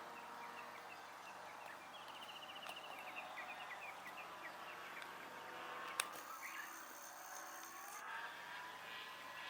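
Radio-controlled model airplane heard from a distance over open-field ambience, its motor tone sweeping upward near the end, with birds chirping in quick repeated runs through the first half. A single click comes about six seconds in.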